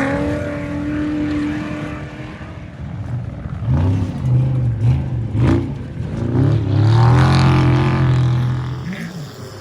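Off-road race vehicle engine revving hard, with repeated quick rises and falls in pitch as the throttle is worked. It is loudest about two-thirds of the way in and falls away near the end.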